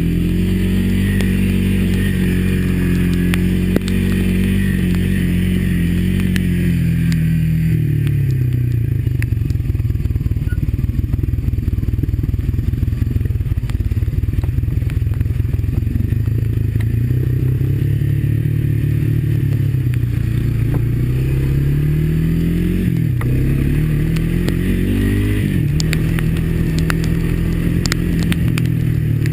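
Single-cylinder four-stroke Honda ATV engine running under way, its pitch easing down a few seconds in, holding low, then climbing again with one brief dip, over a scatter of small clattering knocks.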